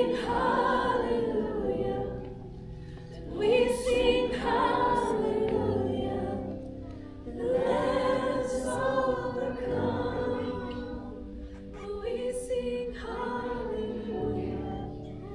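Congregation and worship team singing a slow hallelujah praise song with instrumental accompaniment, in long held phrases that begin again about every four seconds.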